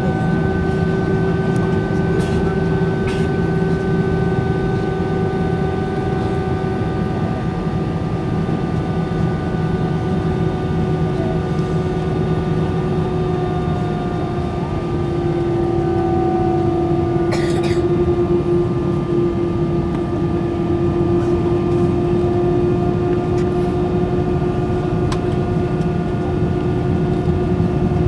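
Airbus A320-200 jet engines heard inside the passenger cabin: a steady loud rumble with several whining tones. The whine shifts slightly in pitch about halfway through.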